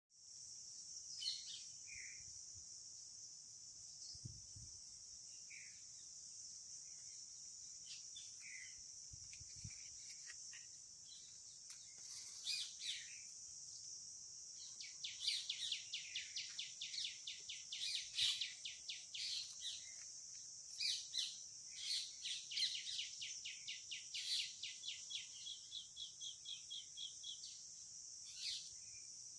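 A steady, high insect drone with birds calling over it: scattered chirps at first, then from about halfway a long run of fast, repeated notes that fades out near the end.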